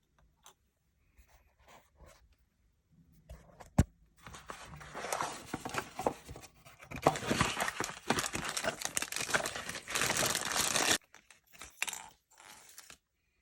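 Close handling noise: a sharp click, then several seconds of dense crinkling and rustling that stops abruptly, followed by a few small clicks.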